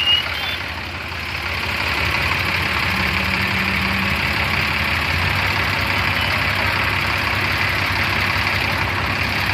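Heavy vehicle's diesel engine running steadily, with its note deepening into a stronger low pulsing about five seconds in.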